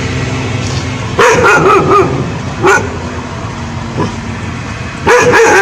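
A dog barking in short bursts: a quick run of barks about a second in, a single bark in the middle and another run near the end, over a steady background hum.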